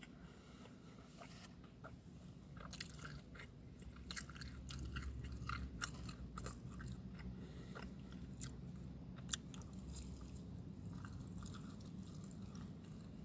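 A person chewing and biting food close to the microphone: soft mouth sounds with scattered small clicks and crunches, over a steady low hum.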